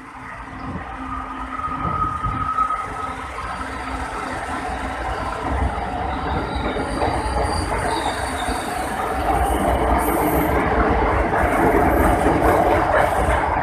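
LRT-2 electric multiple-unit train running past along the platform. Its wheels and motors make a steady rumble that grows louder as the cars go by. A brief high-pitched whine comes about two seconds in.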